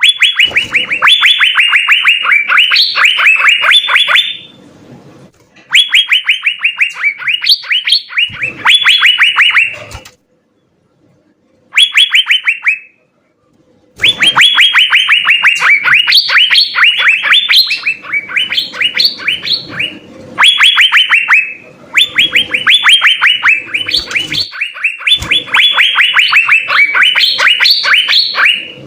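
Asian fairy-bluebird (cucak biru) singing hard: long rapid trains of sharp, bright whistled notes, about seven a second, in phrases of a few seconds broken by short pauses, with a faint low hum underneath.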